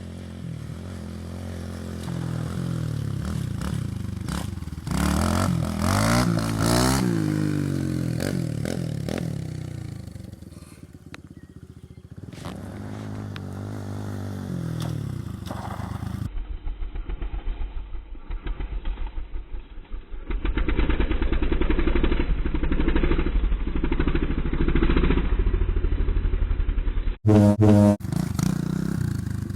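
Dirt bike engines revving, the pitch climbing and falling repeatedly as the bikes accelerate and back off. In the second half an engine runs with a lower, steady, chugging note.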